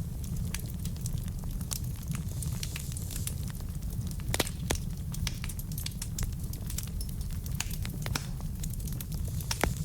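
Wood fire burning in a fireplace: logs crackling with many small pops over a steady low rumble of flame, two louder snaps about four and a half seconds in and near the end.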